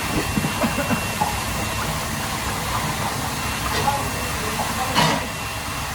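Steady rushing kitchen background noise, with a few light knocks in the first second and one sharp clack about five seconds in.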